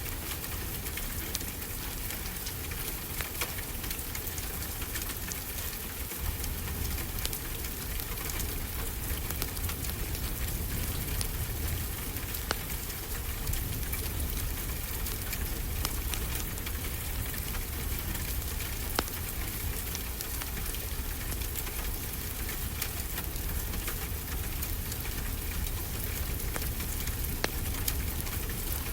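Wood fire crackling, with scattered sharp pops, over a steady wash of ocean surf and a low rumble.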